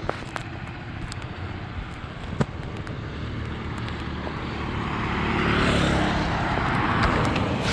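A road vehicle approaching and passing close by, its engine and tyre noise swelling to its loudest about six seconds in and then easing off.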